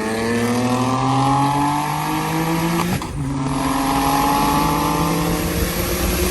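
Car engine accelerating hard, its pitch climbing steadily. About three seconds in there is an upshift, and then the pitch climbs again in the next gear.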